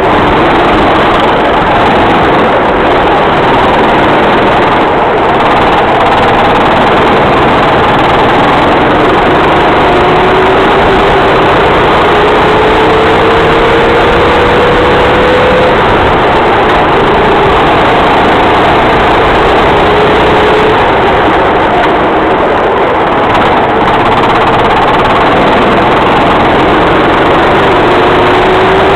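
Racing kart engine running hard and loud, its pitch climbing in several long rises as the kart accelerates.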